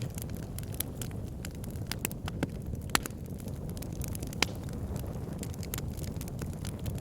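Wood fire burning in a log burner: a steady low rumble of flames with frequent sharp crackles and pops, two louder pops about three and four and a half seconds in.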